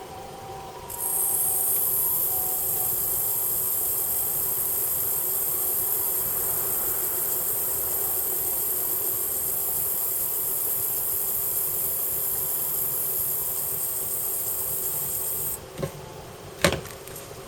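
Pressurised gas jetting out with a steady high-pitched hiss that starts about a second in and cuts off suddenly near the end, followed by a sharp knock.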